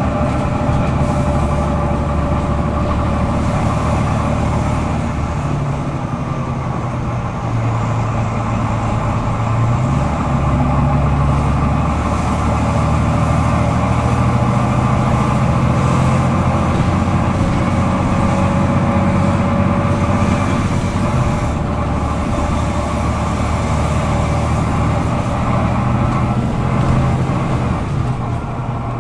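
Volvo B9TL double-decker bus's 9-litre six-cylinder diesel engine running under way, heard from inside the bus, its pitch shifting in steps several times as it changes gear. This is the over-revving that this bus is known for.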